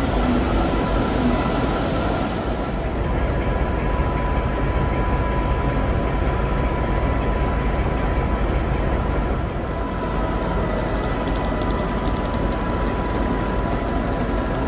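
Steady hum and low rumble of trains standing at a station platform, their engines and onboard equipment running, with a steady high-pitched whine held through it.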